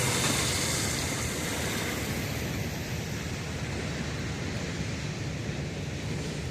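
CSX freight train rolling past: a steady low rumble with a noisy hiss on top. The hiss eases after about two seconds.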